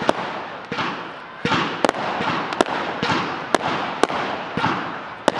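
Aerial firework shells bursting in a rapid string of sharp bangs, about one or two a second, with crackling between the reports.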